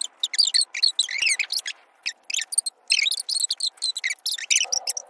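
Many small birds chirping and twittering together: quick, high, overlapping calls that sweep up and down without pause.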